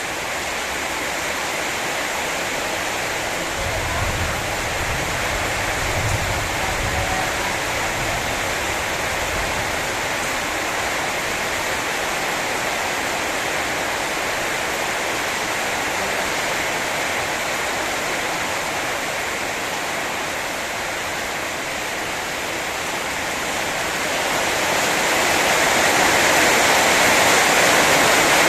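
Heavy rain pouring down in a steady hiss, growing louder about 24 seconds in as the downpour intensifies.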